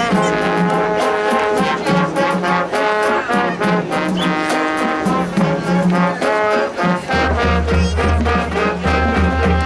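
A marching band's brass section plays loud held chords over drum strokes. A heavy low-brass bass line comes in about seven seconds in.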